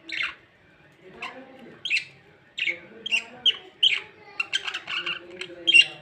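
Pet budgerigar chirping and squawking in short, sharp calls, coming faster and more closely bunched in the second half.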